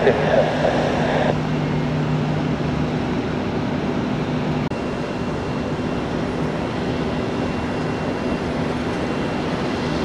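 Aircraft engines running at the airport: a steady rush with a low steady hum underneath. A brief burst of radio noise sits in the first second.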